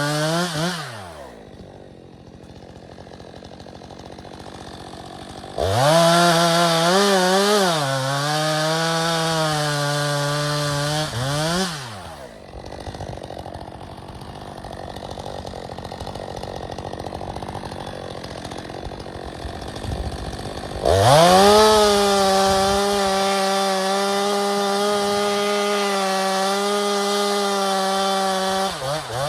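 Stihl 462C two-stroke chainsaw on its stock exhaust, running at full throttle through firewood cuts: it comes off a cut just after the start, revs up for a cut of about six seconds with the pitch sagging under load, drops back to idle, then runs a second steady cut of about seven seconds before falling off near the end. The saw is left to pull itself into the wood with no force applied.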